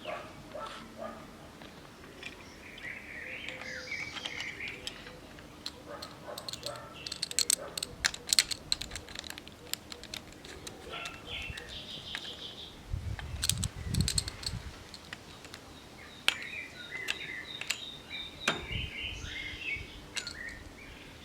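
Small birds chirping on and off, with scattered sharp clicks and taps, a quick cluster of them about a third of the way in, and a brief low rumble about two-thirds of the way in.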